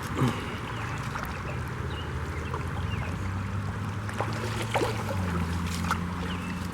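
Creek water trickling and gurgling, with a steady low engine hum of road traffic underneath that shifts in pitch about five seconds in.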